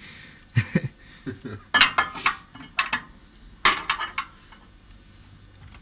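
Several light clinks and knocks of a glass object being handled and set into a microwave oven, knocking against the oven and its turntable plate.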